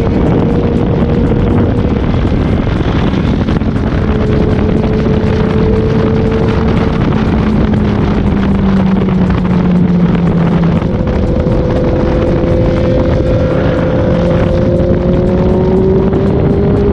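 Inline-four sport bike engine running at a steady riding speed, its pitch drifting and climbing slowly near the end, under heavy wind noise on the microphone.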